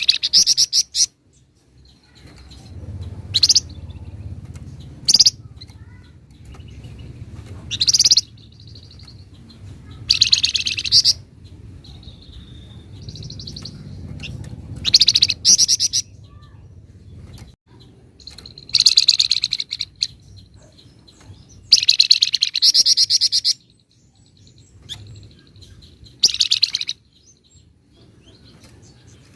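A flamboyan songbird singing in short, high-pitched, rapid rattling bursts (the 'nyecret' phrases bird keepers prize), each half a second to a second and a half long and repeated every couple of seconds. Fainter short chirps fall between the bursts.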